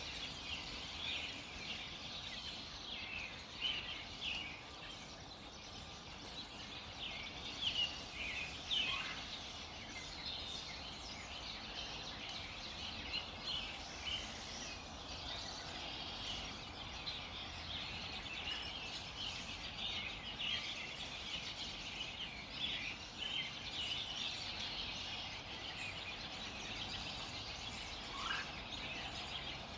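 Dawn chorus of many songbirds chirping and singing over one another in quick, overlapping high notes, with a couple of lower calls standing out, once about nine seconds in and once near the end.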